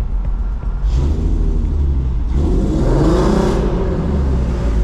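Car driving, heard from inside the cabin: a steady low engine and road rumble. Between about two and a half and three and a half seconds in comes a louder rushing swell with an engine note that rises and then falls.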